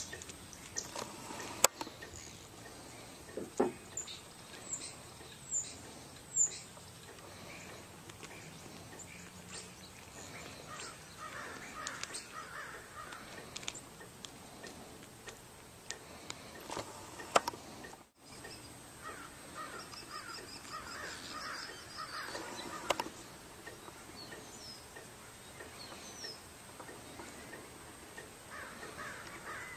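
Animal calls in short repeated bursts, crow-like caws, over a faint outdoor background, with scattered sharp knocks.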